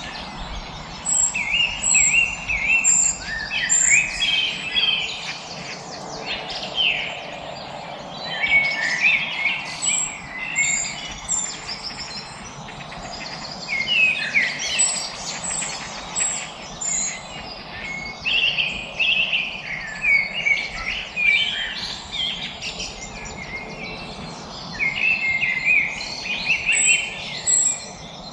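Several songbirds singing and chirping at once, in quick trills and short whistled notes that come in clusters every few seconds, over a faint steady background hiss.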